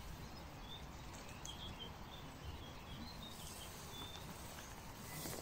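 Quiet outdoor ambience: a faint low background noise with a few short, distant bird chirps scattered through it.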